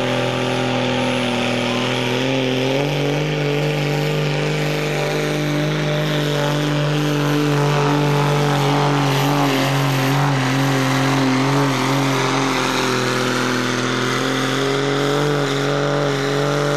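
Diesel pickup truck engine running hard at high, steady revs while pulling the weight sled down the dirt track, its pitch stepping up about three seconds in and then holding.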